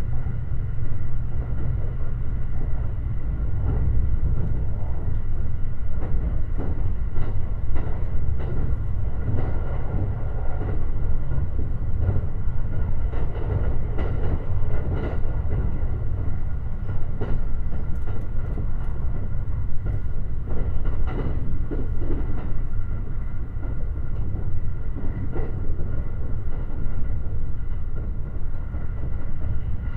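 Limited Express Shirasagi electric train running along the line, heard from aboard: a steady low rumble of wheels on rail with scattered clicks and knocks from the track and a faint steady whine.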